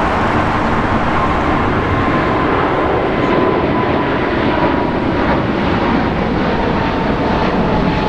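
Boeing 777-200LR's twin GE90 turbofans at takeoff thrust: a steady, loud jet noise with a whining tone that slowly drops in pitch.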